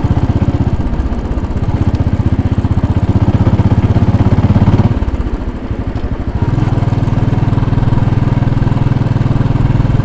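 Royal Enfield Bullet 500's single-cylinder engine running on the road, its firing beats rapid and even, easing off about five seconds in and pulling again about a second and a half later. Wind noise on the microphone runs under it.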